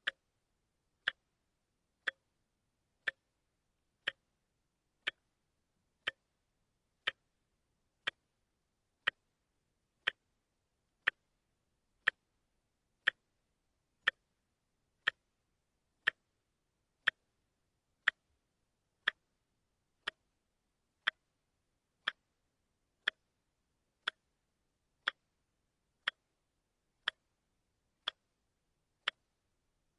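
A quartz wristwatch ticking steadily, one sharp tick each second, with near silence between ticks.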